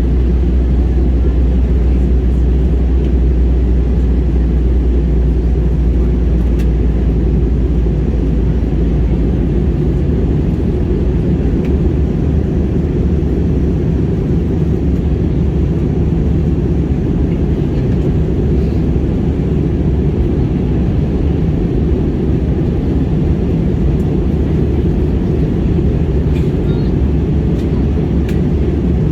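Jet airliner cabin noise in flight: a steady, loud, low-pitched hum of engines and rushing air. The deepest part of the rumble turns less even about ten seconds in, and a few faint clicks come near the end.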